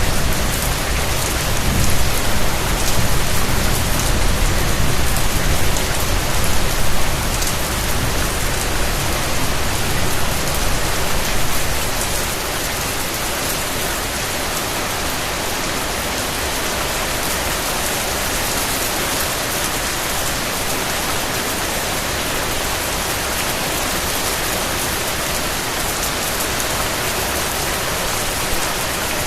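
Steady rain falling on a surface, an even hiss of many drops. In the first twelve seconds or so a low rumble runs under the rain; it fades out, leaving the rain alone and steady.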